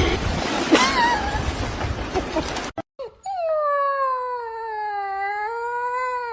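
A dog howling in one long drawn-out note that sags slightly in pitch, rises again and drops away at the end. It comes after a short noisy stretch with a brief squeak.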